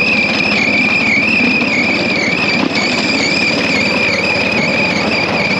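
Bamboo train (norry) running along the rails: the noise of its small motor and wheels, with a steady high whine over it that wavers slightly in pitch.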